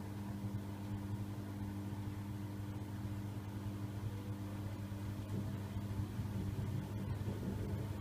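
Siemens iQ700 washing machine spinning an unbalanced load: a steady motor and drum hum with a low, slightly pulsing rumble and a faint rising whine about halfway through.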